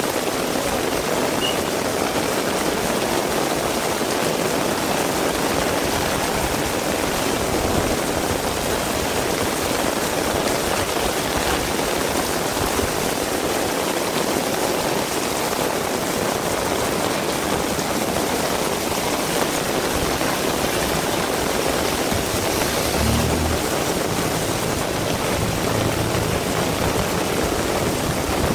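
Heavy rain falling steadily in a continuous hiss and patter. About 23 seconds in, a low rumble rises under the rain for a few seconds.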